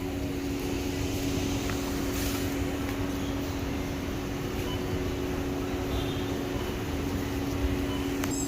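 Car running on the road, heard from inside the cabin: a steady rumble with a constant low drone.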